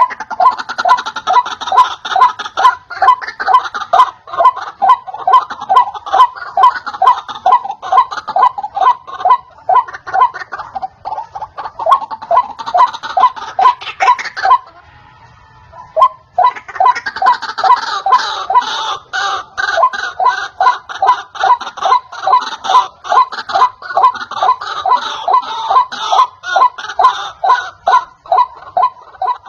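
White-breasted waterhen calling: a fast run of harsh, repeated notes, about three a second. The calls break off for about two seconds midway and then resume.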